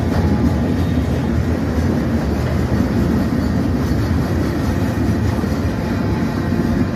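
Freight cars of a CN freight train rolling past: a loud, steady rumble of steel wheels on the rails.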